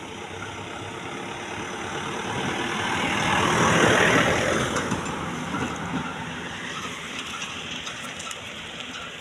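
A vehicle passing by, its engine and tyre noise swelling to a peak about four seconds in and then fading away.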